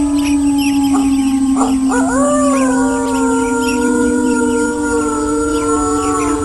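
Several wolves howling together in long, overlapping howls, one held low and steady while others glide up and down above it, with a new howl rising about two seconds in. A couple of short sharp yelps come just before it.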